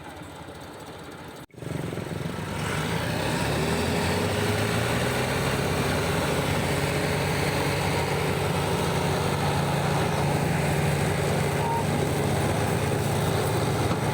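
Massey Ferguson 385 tractor's diesel engine running steadily. It cuts in abruptly about a second and a half in, grows louder over the next two seconds, then holds an even note.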